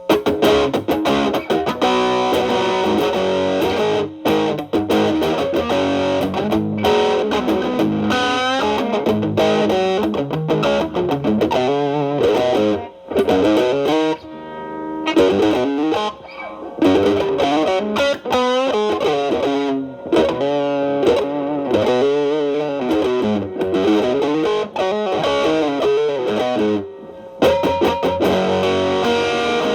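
Telecaster with single-coil pickups played through an MXR Distortion+ stacked with a Boss SD-1 into a Marshall Valvestate amp's clean channel, with the drive cleaned up to a lighter crunch. It plays improvised blues-style lead lines with several string bends and a few short pauses.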